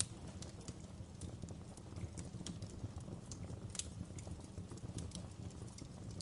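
Wood fire burning in a fireplace: irregular sharp crackles and pops of the burning logs over a steady low rumble of the flames, with a louder pop about four seconds in.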